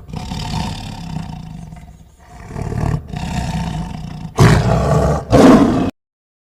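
Lion roaring: a low rumbling growl, then two louder roars of about half a second each near the end, cut off abruptly.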